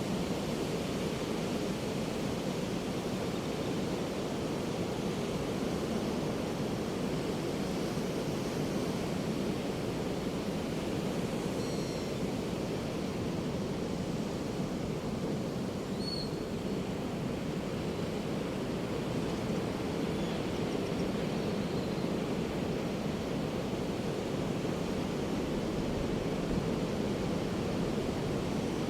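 Ocean surf washing steadily on a beach, an even rush with no distinct crashes. A few faint, short, high seagull calls come through in the middle.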